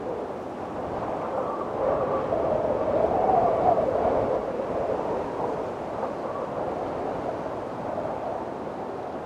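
Windstorm: strong wind blowing, with a wavering tone through it that rises in a gust about three seconds in and then eases.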